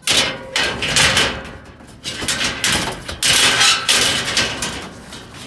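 Steel door frames being dragged and shifted in a dumpster pile: loud scraping and clattering of metal on debris in several bursts, the longest a little past halfway.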